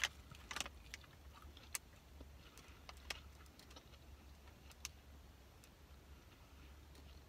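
Faint chewing of a crispy chicken nugget: a bite right at the start, then scattered soft crunches and mouth clicks at irregular intervals over a low steady hum.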